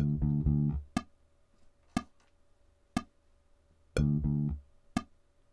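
Electric bass guitar playing a short figure of a few low notes, played twice with about four seconds between, over a click ticking once a second.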